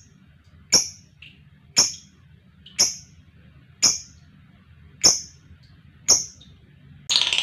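Lovebird giving short, sharp single call notes about once a second, six in all. Just before the end a louder, dense continuous sound starts.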